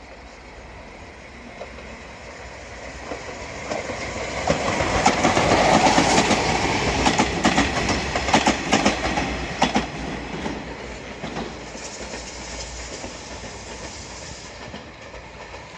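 Kyushu Shinkansen train passing. Its rush builds over about four seconds and peaks with a run of sharp clicks. It then fades away over the last few seconds.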